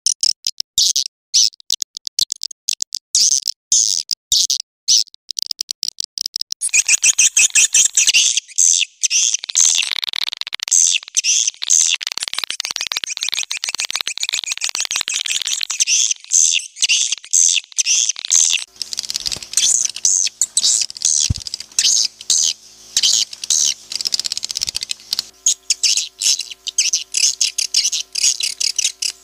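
Swiftlet call recording used as a lure for swiftlet houses: rapid, high-pitched chirps and twittering, spaced out at first, then a dense continuous chorus from about seven seconds in. A steady low hum joins underneath about two-thirds of the way through.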